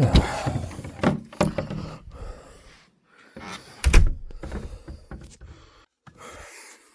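A door being opened and shut: a series of knocks and clatters, with the loudest thud about four seconds in.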